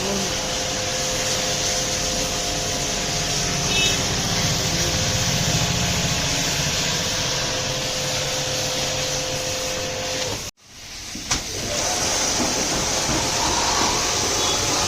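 Steady hiss of a high-pressure water jet spraying, over a steady machine hum, breaking off abruptly about ten and a half seconds in and starting again a second later.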